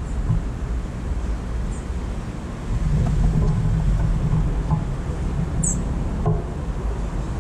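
Steady low outdoor rumble, with two brief high, falling bird chirps, one about two seconds in and one near six seconds.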